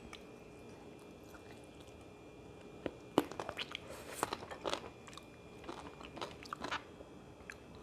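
A person chewing food, quiet close mouth sounds. After a few near-still seconds, a run of irregular short wet clicks and crunches about halfway through.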